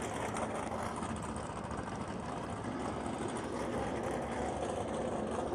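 Engines of classic drag cars idling during their warm-up, a steady rumble.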